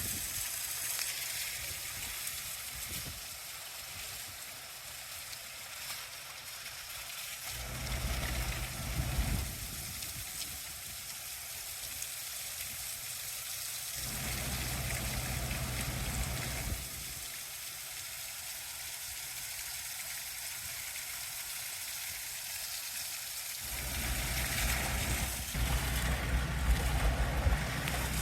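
Water truck's high-pressure spray hissing steadily, with the truck's engine running low underneath in some stretches, loudest near the end.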